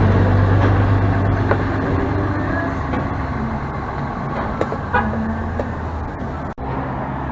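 Small 80cc two-stroke motorized-bicycle engine running steadily with an even low hum, cutting out for an instant about six and a half seconds in.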